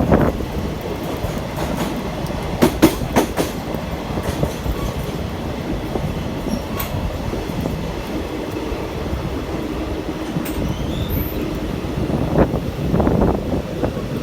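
Train running on the rails: a steady low rumble, with a quick cluster of sharp wheel clicks about three seconds in and a few more single clicks later.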